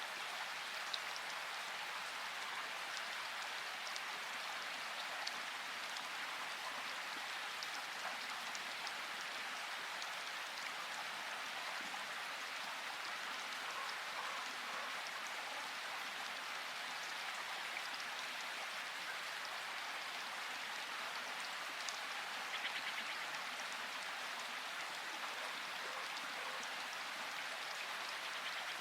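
Steady rain with scattered drop ticks, falling at an even strength with no thunder.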